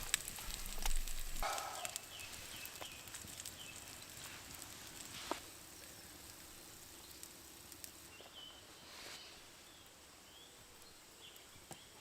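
Campfire crackling with light sizzling from the pan as bacon is warmed, with scattered small pops; the crackle fades after a few seconds. Short bird chirps repeat in the second half.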